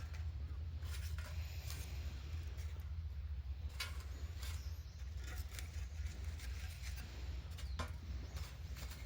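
Campfire crackling, with a few sharp pops scattered over a steady low rumble.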